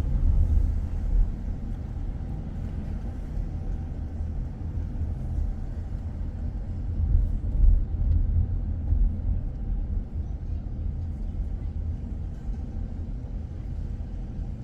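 Steady low rumble of a car driving, engine and road noise, swelling louder about a second in and again around seven to eight seconds in.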